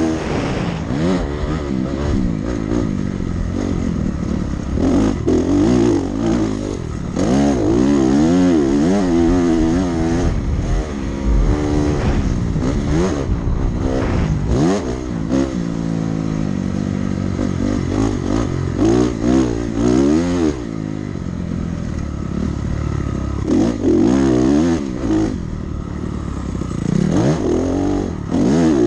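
Dirt bike engine being ridden hard around a motocross track. It revs up and backs off again and again, its pitch climbing and falling every second or two as the throttle is opened and closed.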